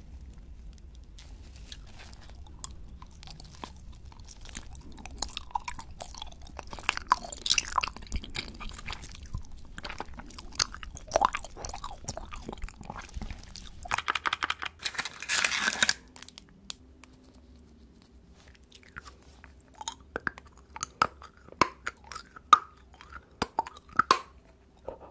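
Close-miked eating sounds of candy: crunching, biting and chewing, with many sharp crackles and mouth clicks. About two-thirds of the way through there is a dense, harsher noise lasting about two seconds.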